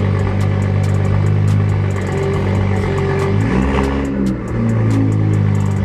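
BMW 335i's N55 turbocharged straight-six idling through a straight-piped exhaust with a catless downpipe and no resonator or muffler, a steady, loud drone with a light, fast ticking over it. About three and a half seconds in, the pitch shifts and the level dips briefly before settling back to the idle.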